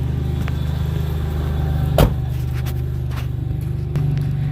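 1992 Ford Ranger's 4.0L V6 engine idling steadily after a cold start. There is a single sharp knock about two seconds in, and the idle gets slightly louder near the end.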